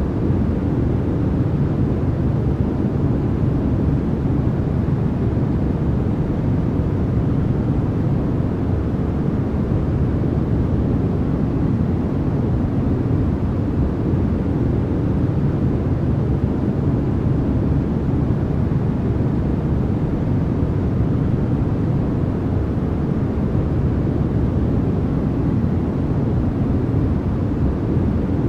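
Steady white-noise sleep track: an unbroken, even hiss with no changes, weighted toward the low end so that it sounds deep and rumbling rather than bright.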